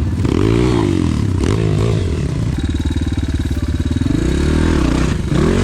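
Enduro pit bike engine revving up and down in repeated bursts of throttle, holding steadier revs for a second or so in the middle.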